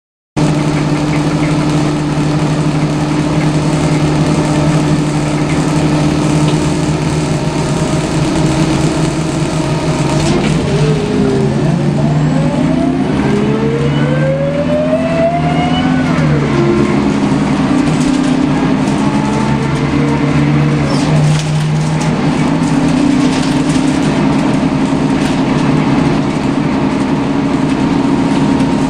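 Scania L94UB CNG bus heard from inside the passenger cabin: a steady engine drone, then about ten seconds in a whine that climbs in pitch for several seconds as the bus pulls away and drops back around sixteen seconds, before the drone settles steady again. The whine is typical of these Scania buses.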